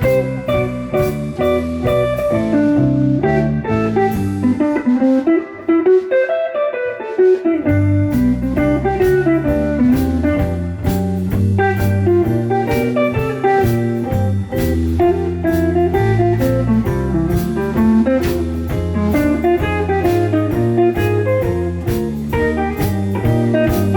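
Live band playing an instrumental number with bass and steady drums. About five seconds in, the bass and drums stop for a couple of seconds while a lone melodic line plays on, and then the full band comes back in.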